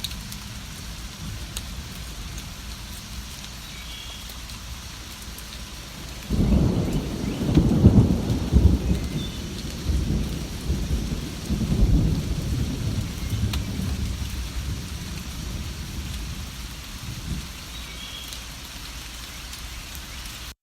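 Steady rain falling, with a roll of thunder that breaks in suddenly about six seconds in, is loudest a couple of seconds later, swells once more and then rumbles away over several seconds.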